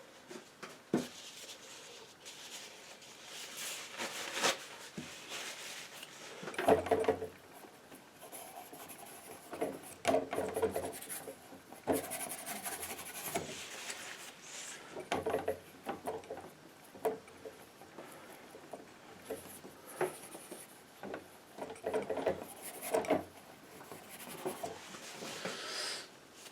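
Painting knife scraping and spreading thick paint on a canvas in a series of irregular rubbing strokes, a second or two apart, with the odd sharp tap of the blade.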